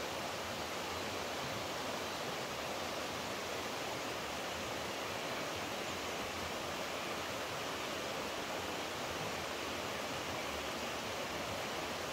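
Running water rushing steadily, an even unbroken wash of sound.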